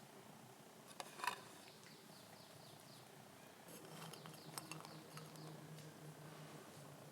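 Near silence with a few faint clicks and taps: the loudest a little after a second in, a small cluster around four to five seconds.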